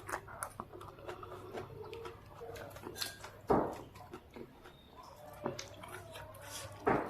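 Close-miked mouth sounds of a person eating noodle soup: soft wet chewing clicks throughout, with two louder short mouth noises about halfway and near the end.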